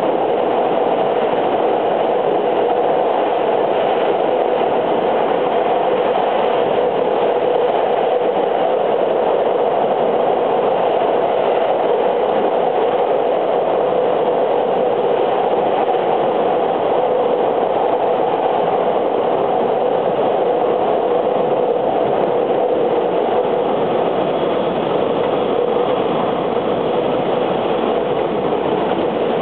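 JR West 683 series 2000-subseries electric multiple unit running steadily, heard from inside the car: an even rumble of wheels on rail that holds level throughout, with no rise or fall in pitch.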